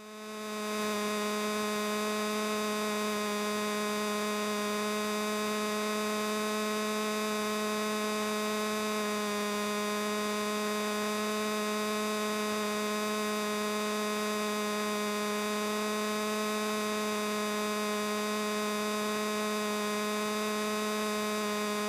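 Steady electrical hum with a long row of overtones, fixed in pitch, fading in over the first second.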